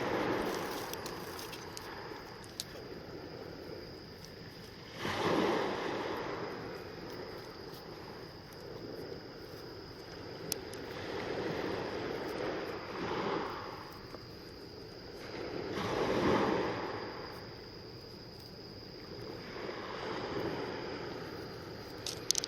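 Sea waves washing in, swelling and fading about every five seconds.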